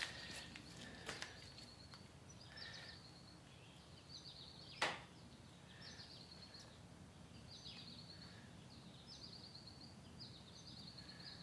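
Faint bird song: short high trilled phrases repeated every second or so. One sharp click sounds about five seconds in.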